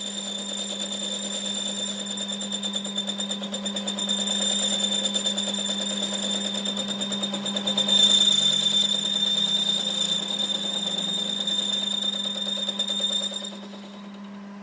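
Machine-shop machinery running with a steady high whine over a fast, even rattle. The whine fades out shortly before the end.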